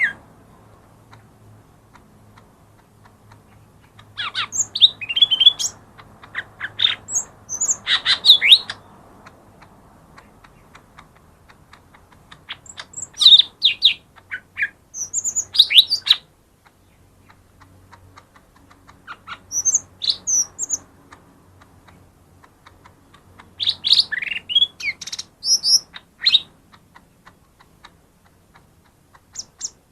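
Cucak ijo mini (lesser green leafbird) singing in bursts of rapid, high, warbling chirps a few seconds long, separated by pauses of several seconds.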